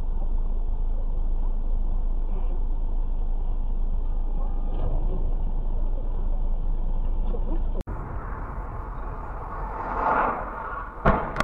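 Steady low rumble of a vehicle on the road, heard from a dashcam inside the cab. It cuts off abruptly about eight seconds in and gives way to other road noise that swells. Near the end there are two sharp bangs, typical of a collision.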